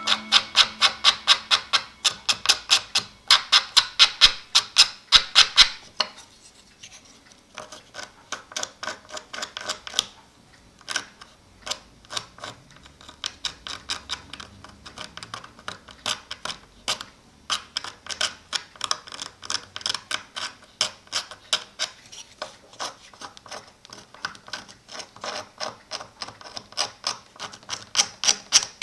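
A knife blade scraping the old paper and glue off a cuckoo clock bellows, in rapid back-and-forth strokes, about four or five a second. The strokes are harder for the first few seconds, lighter through the middle, and harder again in the second half.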